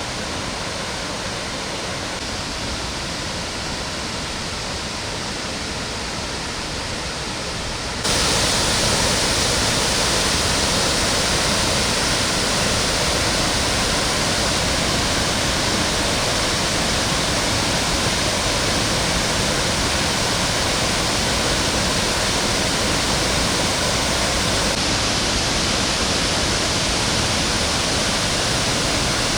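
Waterfall: a steady rush of falling water, which becomes abruptly louder and brighter about eight seconds in.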